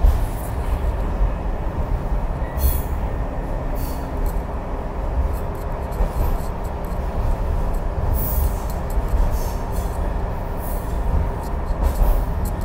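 Heritage railway carriage running along the track, heard from inside the carriage: a steady low rumble with brief high clicks from the wheels and rails every few seconds.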